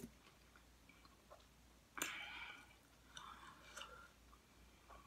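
Faint chewing of nachos in the mouth, with a louder crunchy bite about two seconds in and softer chewing after it.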